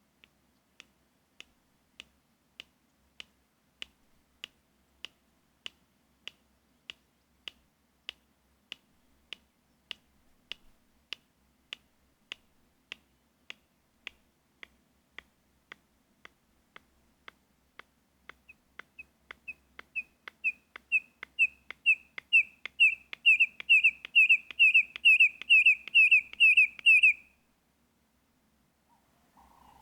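A bird calling. Sharp clicks come evenly, about three every two seconds. Then a series of piping whistled notes grows louder and faster and stops abruptly.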